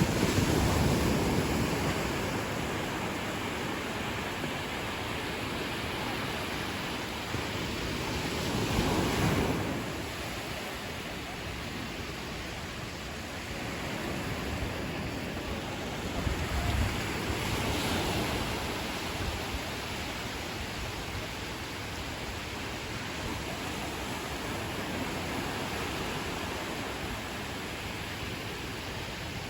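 Ocean waves breaking and washing up a beach, louder swells coming at the start, about nine seconds in and about eighteen seconds in, over a steady hiss of surf.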